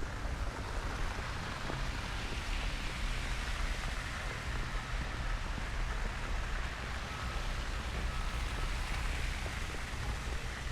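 Steady city street noise in a snowstorm: a low rumble under an even hiss, like traffic on wet, slushy streets, the hiss swelling a little in the middle.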